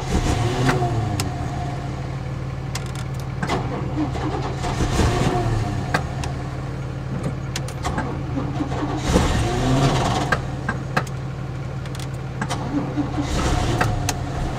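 A propane-fuelled 454 big-block V8 being cranked over and over, about four separate tries, not yet catching for good after sitting all winter on a jump-started battery. Under it runs the steady idle of a Cummins diesel.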